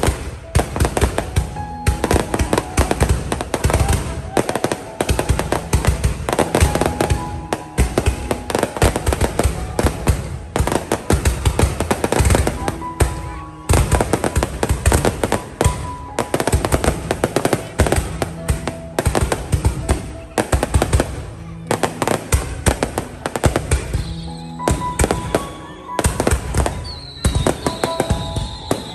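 Fireworks bursting in dense, continuous volleys of bangs and crackles, with music playing underneath.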